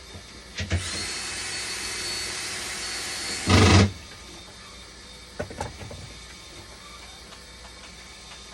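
A small power tool runs with a hiss and one steady high whine for about three seconds, ending in a louder burst before it stops suddenly. A few clicks come just before it and a few knocks about two seconds after it.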